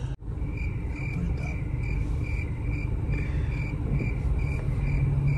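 Low, steady hum of a car idling at a standstill, heard from inside the cabin, with a high-pitched pulse repeating evenly about three times a second.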